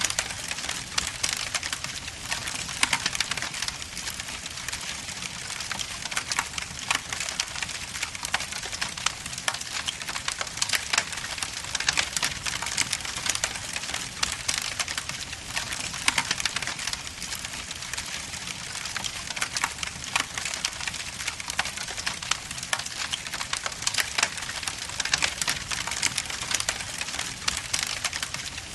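Wood logs burning in a fireplace, crackling and popping continually over a steady hiss of flame, with many sharp snaps scattered throughout.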